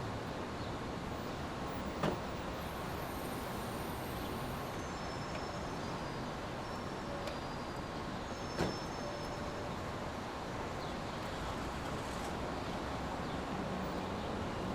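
Steady brown noise: an even, deep rushing hiss that does not change. Two short clicks sound, about two seconds in and again near the middle.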